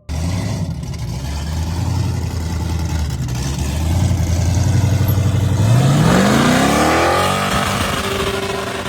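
Small-block Chevrolet V8 in a 1986 Ford Mustang running at a steady idle, then revved once about six seconds in, its pitch climbing for a couple of seconds before dropping back.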